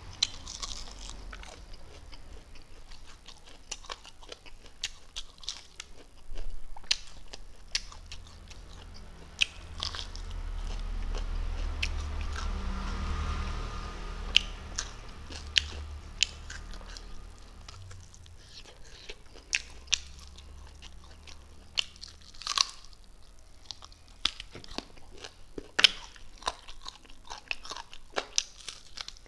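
Close-miked chewing and crunching of chicken wing and rice, with many sharp wet mouth clicks and smacks. A low rumble swells and fades in the middle.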